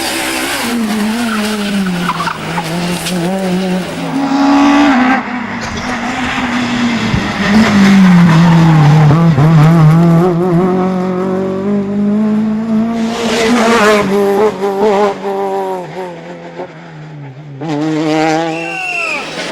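Peugeot 206 S1600 rally cars at full stage pace: a naturally aspirated four-cylinder engine revving hard, rising and falling through gear changes and corners. It is several passes in a row, loudest in the middle.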